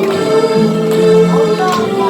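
Harmonica ensemble playing a melody in harmony over sustained chords, with light clicks about once a second keeping a beat.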